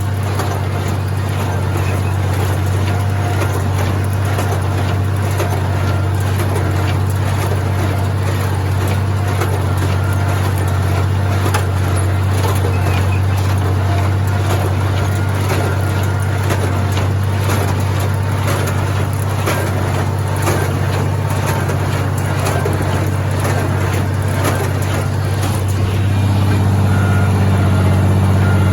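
International Harvester 706 tractor engine running steadily under load, driving a New Holland 273 square baler through its PTO, with a continual clatter of knocks from the working machinery. The engine gets a little louder near the end.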